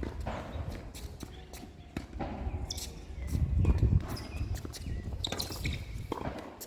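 Footsteps and the thuds of a tennis ball bouncing on the court, irregular and scattered, over a steady low rumble.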